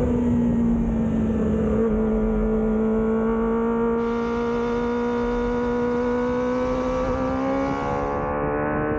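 Kawasaki Ninja ZX-25R's high-revving 250 cc inline-four heard from onboard, held at steady revs through a wet corner, its pitch dipping slightly and then climbing again from about six seconds in as the bike accelerates out.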